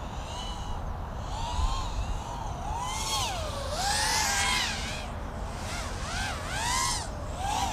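Racing quadcopter's brushless motors and three-blade props whining in flight, the pitch swooping up and down again and again with throttle changes.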